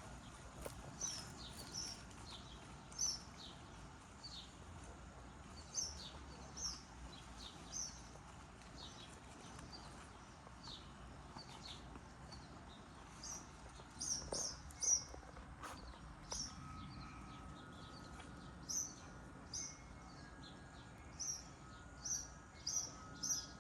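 Birds chirping: short high-pitched chirps repeated irregularly, about one a second, over quiet outdoor background.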